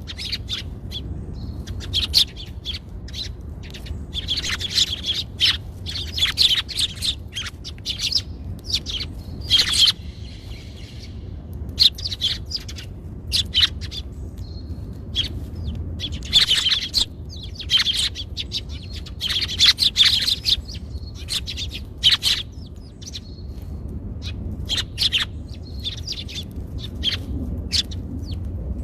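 Small birds chirping: many short, sharp chirps in quick, irregular runs, over a steady low hum.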